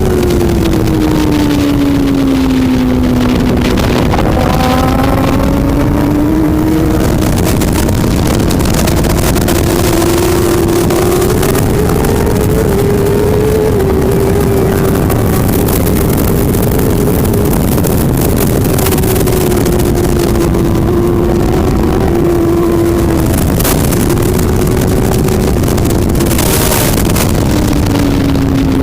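Superbike engine running at race speed: its note falls over the first four seconds as the bike slows, then climbs and holds fairly steady with small rises and dips, and falls again near the end.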